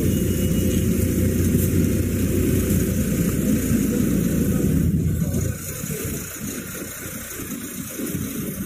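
A car engine running with a deep, steady rumble, loud for about five seconds, then dropping to a quieter, uneven rumble.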